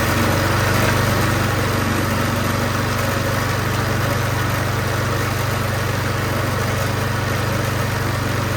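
Troy-Bilt 24-inch snowblower's single-cylinder four-stroke engine running steadily on partial choke just after starting, its carburetor freshly cleaned and its fouled spark plug replaced: it now runs properly.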